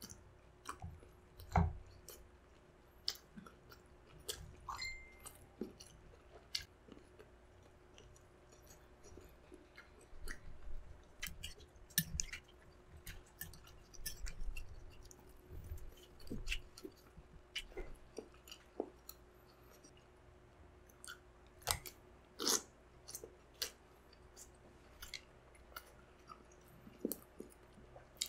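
Close-miked chewing of spicy balut (fertilised duck egg) with chopped chili: quiet wet mouth sounds and scattered sharp clicks and smacks, with pauses between bites.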